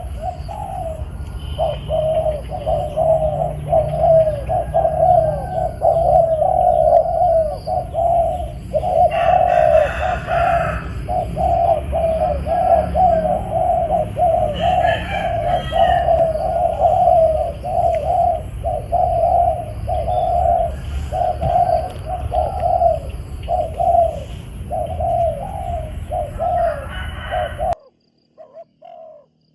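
Spotted doves cooing over and over in a long unbroken series of low, repeated coos, one call overlapping the next, over a steady low rumble. It cuts off abruptly near the end.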